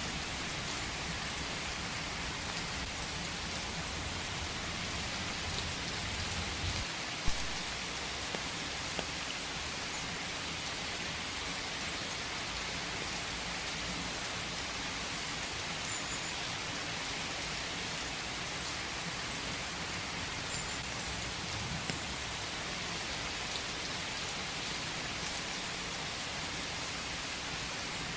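Steady rain falling in a forest, an even dense patter with scattered single drops, one sharper drop hit about seven seconds in.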